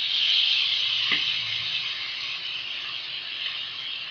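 Chili sauce and shredded cabbage and capsicum sizzling in hot oil in a black iron kadai while a wooden spatula stirs them. The sizzle is loudest at the start, right after the sauce goes in, and slowly eases off. There is a single light knock about a second in.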